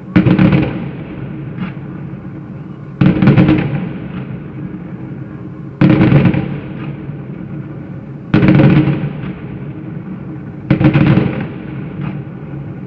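Fireworks salute volleys going off, five loud booms about every two and a half to three seconds, each dying away in a rumbling echo.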